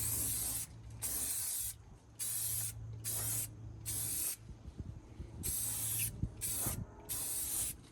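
Aerosol spray paint can sprayed in a series of short bursts, about eight hissing sprays with brief pauses between them, as the paint is laid on.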